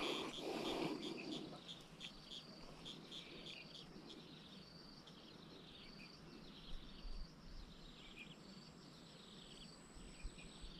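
Faint insects chirping in many short, rapidly repeated high pulses. A brief noisy rustle comes in the first second, and a thin steady high whine joins about eight seconds in.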